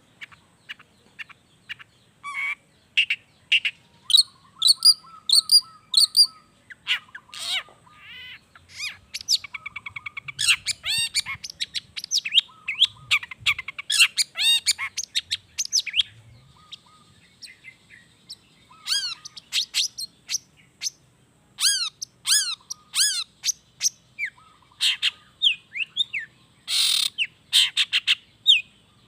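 Long-tailed shrike (cendet) singing a varied, mimicking song of quick chirps and trills, turning in the second half to a run of repeated sharp downslurred notes.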